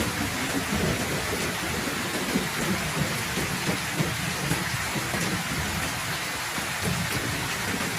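Heavy rain falling steadily: a dense, even hiss, with an irregular low rumble underneath.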